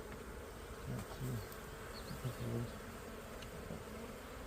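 Honeybees buzzing, with a steady background hum and a few short, louder low buzzes as single bees fly close past, about a second in and again near the middle.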